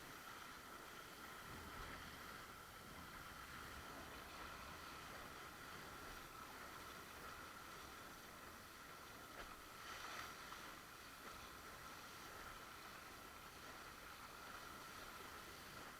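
Faint, steady rush of water and wind around a windsurf board on the water, with a brief louder surge about ten seconds in.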